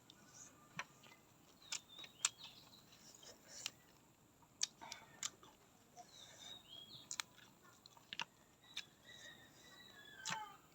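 Close-up chewing of crunchy raw vegetables: sharp crunches at irregular intervals, about ten in all.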